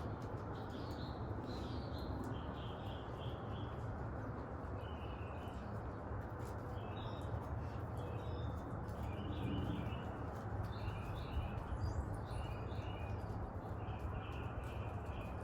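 Birds chirping in short repeated clusters over a steady background rush.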